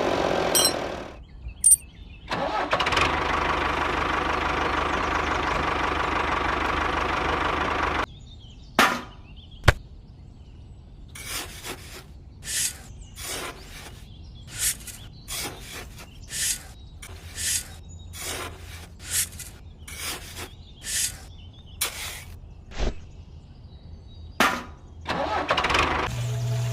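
A small motor runs steadily for several seconds and cuts off suddenly. After it comes a run of short, evenly spaced bursts, about one a second.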